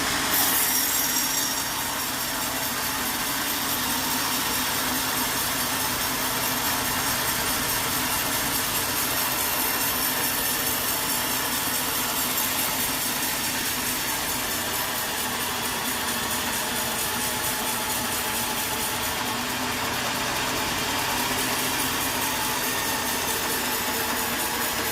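Sawmill saw cutting steadily through a log, a continuous sawing noise that gets louder and brighter just after the start as the blade bites in.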